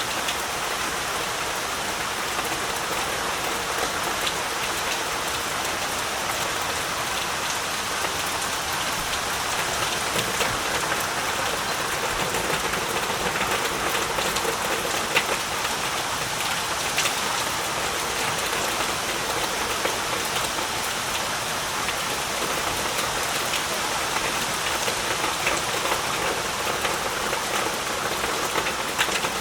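Heavy rain falling steadily, a dense even hiss with scattered individual drop splats.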